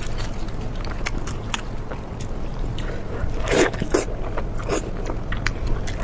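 Close-up eating sounds: chewing with scattered wet mouth clicks and smacks, a cluster of louder ones about three and a half seconds in, over a steady low hum.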